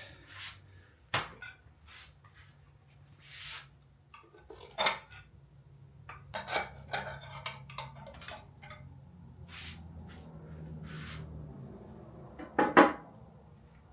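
Scattered metallic clinks and clanks of hand tools and engine parts being handled during an engine teardown, with a louder clank near the end and a faint low hum through the middle.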